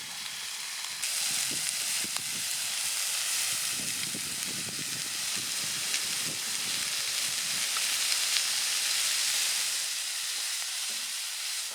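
Meat sizzling over a campfire: a steady frying hiss that grows brighter about a second in, with frequent small pops and crackles.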